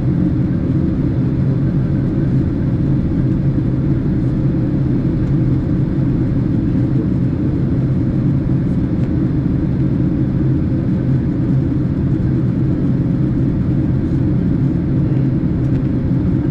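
Steady low rumble of a Boeing 767 airliner's cabin in flight, from the engines and the rush of air, with a faint steady hum over it.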